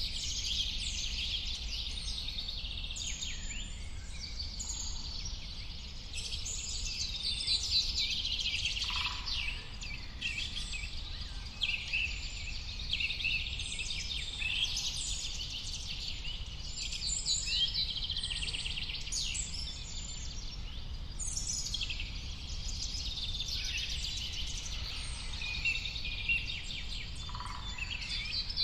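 A dense chorus of many songbirds chirping and trilling at once, with overlapping calls throughout, over a steady low rumble.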